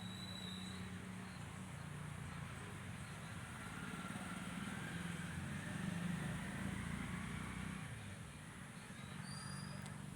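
A low engine hum that swells about six seconds in and fades again, with a few short, faint high chirps near the start and near the end.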